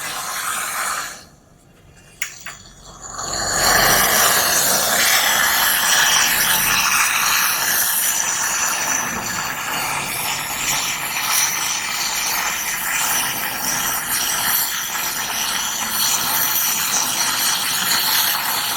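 Gas torch flame hissing steadily while heating the AC's copper capillary pipework. It breaks off briefly after about a second, a sharp click comes near two seconds, and the hiss starts again about three and a half seconds in.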